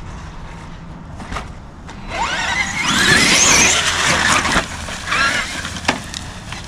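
Traxxas Xmaxx RC monster truck's brushless electric motor whining up in pitch under throttle for about two and a half seconds, starting about two seconds in, then a shorter whine and a sharp click. The truck is faulty, its throttle and reverse not working properly.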